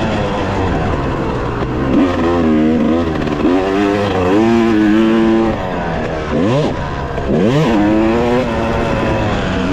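Yamaha YZ250X two-stroke dirt bike engine under hard riding on a motocross track, revving up and down as the throttle is worked, with two quick, steep rev climbs about two-thirds of the way through.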